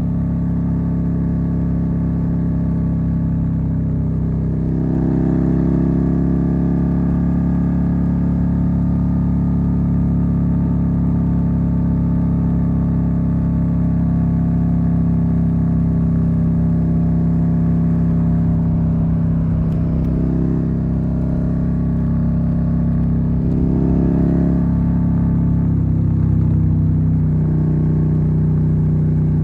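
Suzuki SV650's V-twin engine running under way at a fairly steady pitch, with small throttle changes: it rises a little about five seconds in, wavers briefly twice past the twenty-second mark, and eases down slightly near the end.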